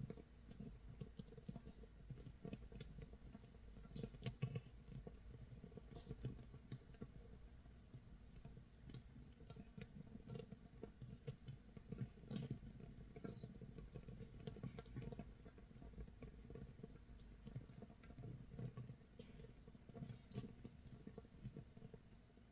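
Makgeolli base brew (mitsul) fermenting in a crock about 24 hours in: a faint, dense, irregular crackling of carbon dioxide bubbles popping at the surface, like rain or scorched rice sizzling in a pan.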